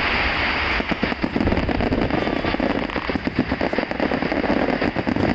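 Fireworks going off in a dense, continuous run of rapid crackling pops and bangs, starting suddenly.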